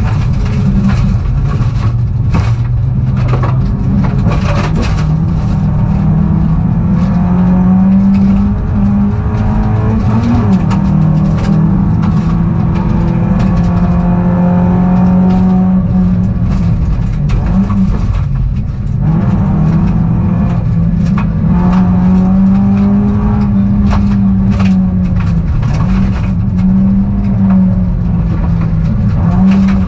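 Peugeot rally car's engine heard from inside the cabin, driven hard with the revs rising and falling through gear changes, and with short knocks scattered throughout.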